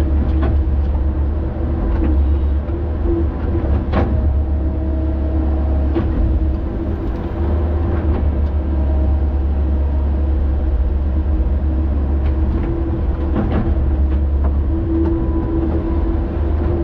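Heavy earthmoving machine's diesel engine running steadily under work, with a deep rumble and occasional sharp metallic knocks, the loudest about four seconds in.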